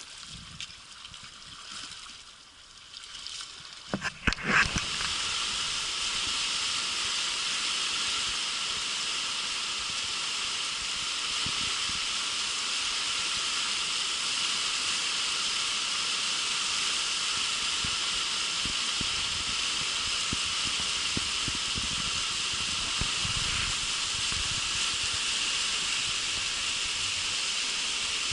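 Rushing whitewater of a mountain river, a steady hiss that sets in after a few knocks about four seconds in.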